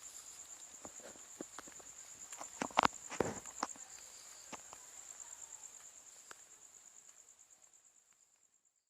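Night insects trilling steadily in a high, fast-pulsing tone, with a few short knocks and rustles loudest about three seconds in; the sound fades away near the end.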